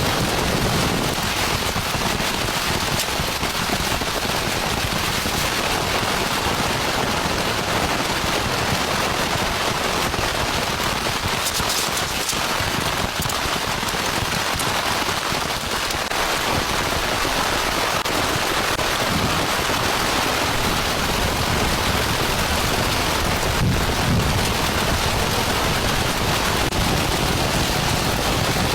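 Heavy rain falling steadily: a dense, even hiss of rain with many close drop hits throughout.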